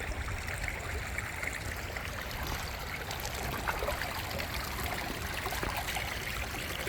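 Steady wash of light rain and flowing river water, with scattered faint clicks and a low rumble.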